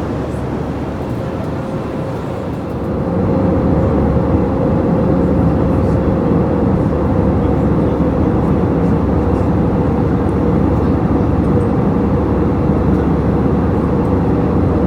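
Steady in-flight cabin noise of an Airbus A321, the drone of its CFM56 engines and the rush of air over the fuselage, with a steady hum running through it. It grows louder about three seconds in and then holds.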